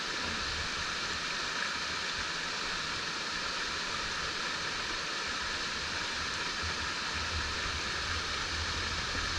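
Mountain stream water rushing over rocks in a steady, even wash.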